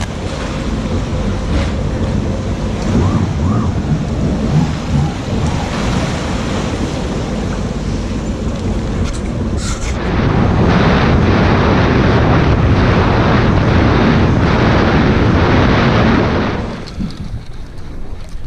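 Wind rushing over the camera microphone with sea water noise, out on a jet ski. It gets louder about ten seconds in and falls away sharply near the end.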